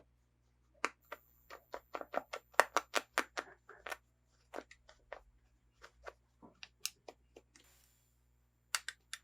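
Hands handling plastic toy pieces and packaging: irregular sharp clicks and taps, a few a second, with a brief soft rustle shortly before the end.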